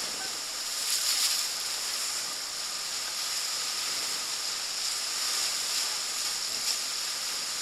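River water rushing steadily around a drifting inflatable raft on the Ganges, an even hiss with no strokes or breaks.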